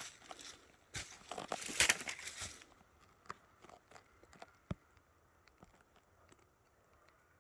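Rustling and crinkling for the first two and a half seconds, then scattered faint clicks and taps, one sharper tap near the middle, trailing off.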